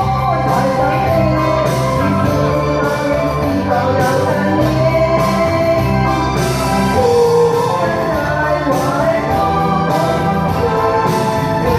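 A solo singer performing a Chinese pop song over instrumental backing with a steady bass line.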